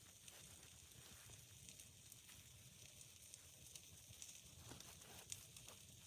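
Near silence: a faint hiss with a few soft ticks, one a little louder about five seconds in.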